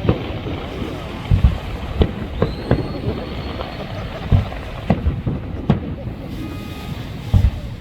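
Aerial fireworks shells bursting: irregular deep booms mixed with sharper cracks, about half a dozen strong ones, with a short high whistle about two and a half seconds in.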